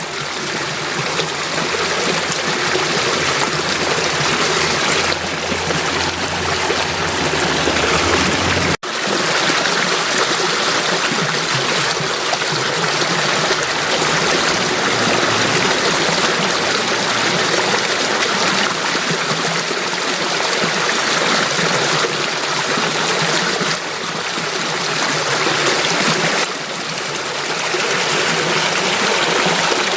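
Flowing stream water rushing and trickling steadily. About nine seconds in the sound breaks off for an instant and resumes without the low rumble that lay beneath it before.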